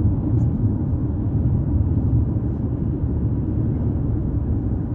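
Steady low rumble of a vehicle on the move: road and engine noise while driving.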